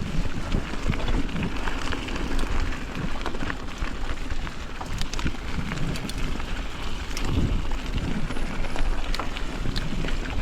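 Mountain bike being ridden along a forest trail: tyre noise over the ground with many small clicks and rattles, and wind rumbling on the microphone.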